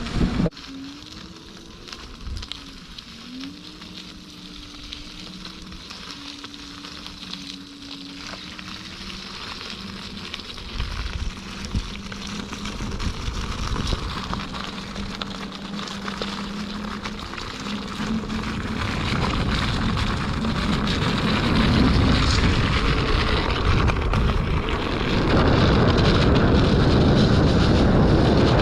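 Electric unicycles riding along a path: a faint hub-motor whine and tyre hiss, under wind rushing over the microphone that builds steadily and is loud for the last few seconds.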